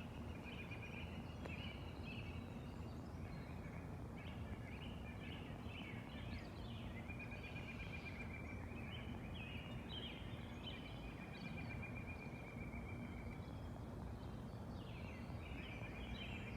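Several woodland songbirds singing: chirps and short phrases throughout, with a long, rapid trill from about seven seconds in, over a steady low rush of background noise.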